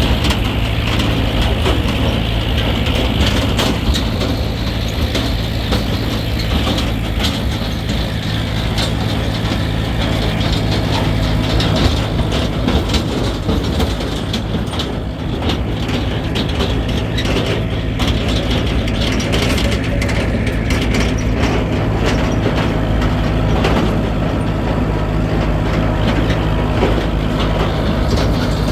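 A motor running steadily: an even low hum, with many small clicks and rattles over it.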